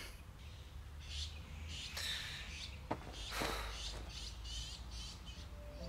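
Birds chirping faintly, in short scattered calls, with a single sharp click about three seconds in.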